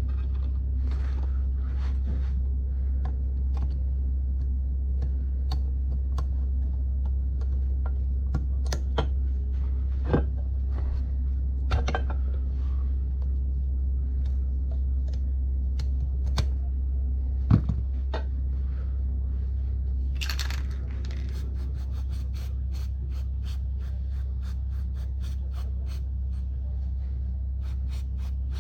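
Metal tools and parts clinking and scraping during hand work on an ATV wheel, over a steady low hum. About twenty seconds in there is a scrape, then a long run of quick, even ticks.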